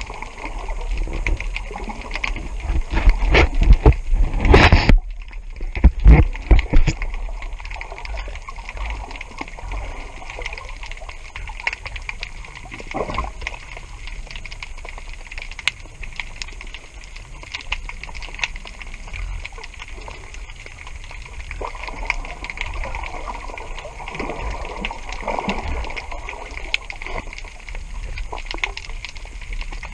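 Water splashing and gurgling with many small crackles, with louder rough bursts a few seconds in.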